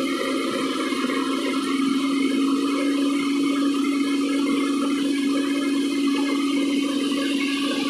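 JCB backhoe loader running steadily: an even machine drone with a constant hum and no change in pitch.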